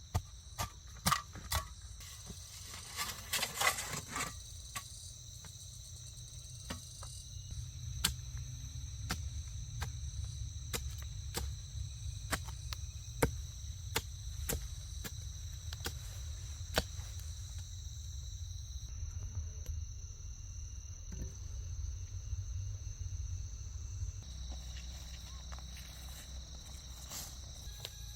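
Insect chorus holding a steady high-pitched drone on two pitches, with scattered sharp knocks and taps throughout and a brief rustling scrape about three seconds in.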